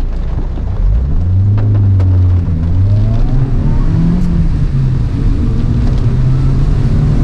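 Toyota AE111 Trueno's four-cylinder engine heard from inside the cabin, pulling hard under acceleration. The revs climb, drop back at gear changes twice, then hold steady.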